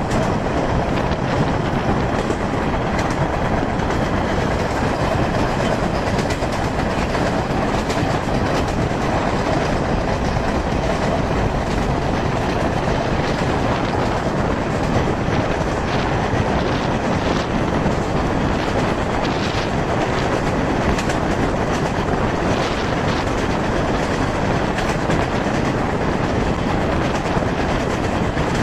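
Passenger train coach running at speed, heard from just outside its window: a steady rush of running noise with faint clicks from the wheels on the track.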